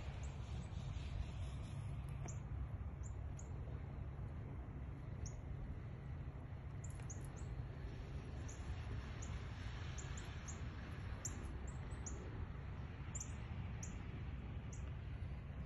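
Small birds chirping: many short, high chirps at irregular intervals, over a steady low rumble.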